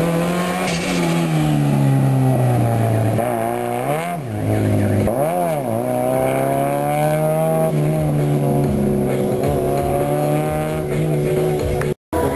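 Small red roadster's engine run hard around an autocross course: the revs climb and fall, with two sharp dips and recoveries about four and five and a half seconds in. The sound drops out for a moment near the end.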